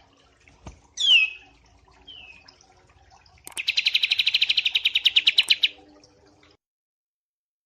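Small songbird singing: a sharp falling whistle about a second in, then a fast, even trill of about ten notes a second lasting some two seconds. The recording cuts off abruptly near the end.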